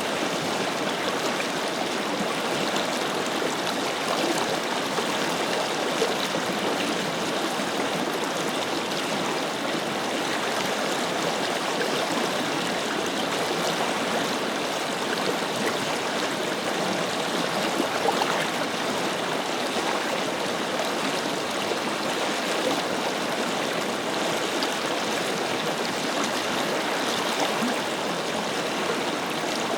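Forest river flowing steadily over rocks, a continuous rushing and gurgling of water.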